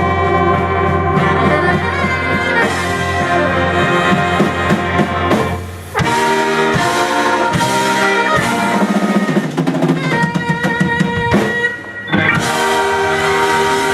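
Soul band with a brass section of trumpets, trombones and saxophone playing held chords over bass and drum kit. The band breaks off briefly about six seconds in and again near the end, then comes back with short punchy horn stabs.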